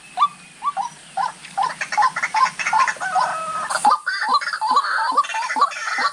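White-breasted waterhens calling: a run of short, repeated rising notes, two or three a second. About four seconds in, the notes grow denser and overlap.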